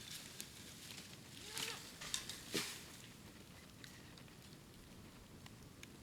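Bamboo bonfire crackling with scattered sharp clicks, and a few louder pops of burning bamboo about one and a half to two and a half seconds in.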